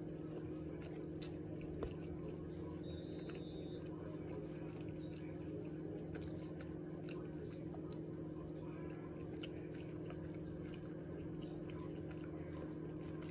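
Close-miked chewing and small wet mouth clicks of a person eating barbecue rib and white bread, over a steady low electrical hum.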